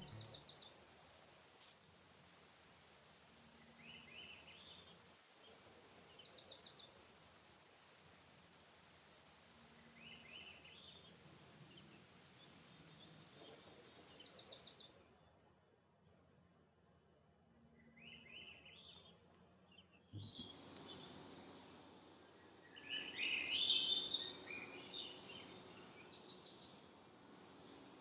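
Songbirds singing. One bird repeats a short song that ends in a high trill three times, about seven seconds apart. Later, several birds chirp and sing together, busiest about 23 seconds in.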